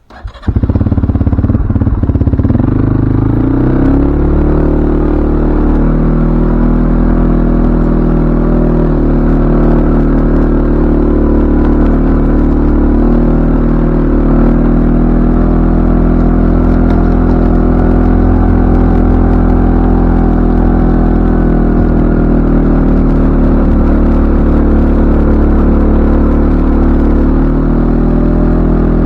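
CFMoto ATV engine running loud. It comes in suddenly with a rattle, rises in pitch over the first few seconds, then holds an even, steady note.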